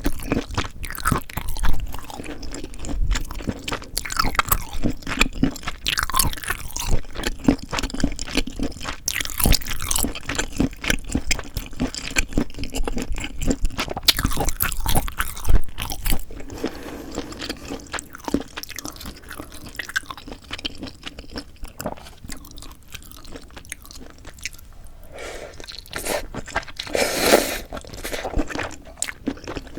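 Close-miked eating sounds: a person chewing steadily, with many quick, sharp mouth clicks. A louder burst comes near the end.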